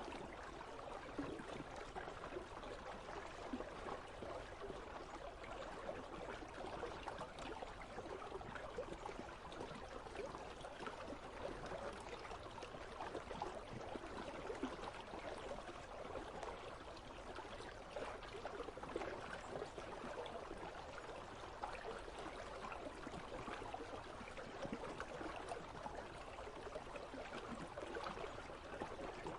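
Icy river flowing: a steady, even rush of running water.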